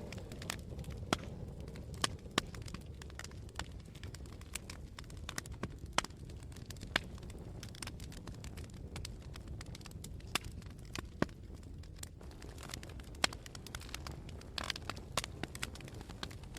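Wood fire burning with irregular sharp crackles and pops, several of them louder snaps, over a low steady rumble.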